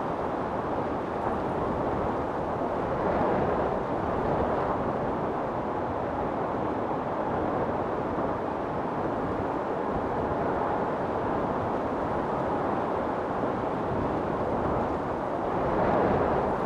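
Storm wind blowing steadily in a low, even rush, swelling in gusts about three seconds in and again near the end.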